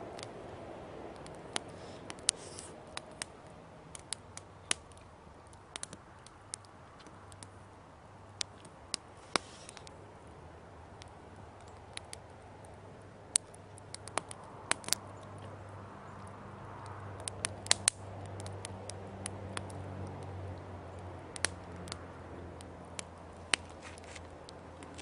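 Wood campfire crackling: sharp, irregular pops and snaps about once a second, with small clusters of them now and then.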